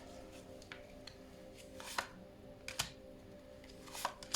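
Oracle cards being handled on a table: a few sharp, quiet clicks and snaps of cards being laid out, with faint background music underneath.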